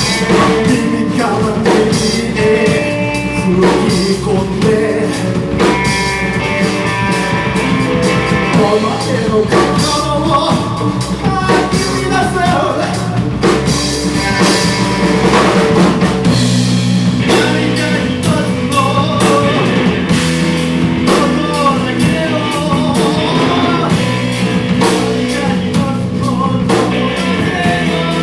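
Live rock band playing a song with guitar, bass and drum kit, and a singer's voice over it.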